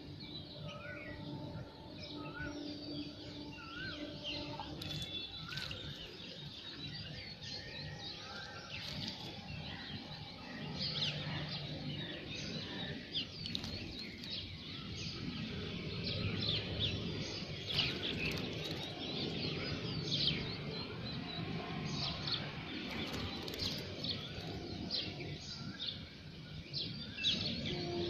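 Small birds chirping and calling repeatedly in quick short notes. From about ten seconds in, water splashes and wings flutter as a bird bathes in a shallow bowl of water.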